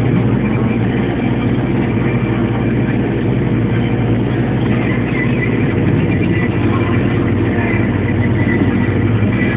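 Belarus MTZ 952 tractor's diesel engine running steadily while pulling a plough.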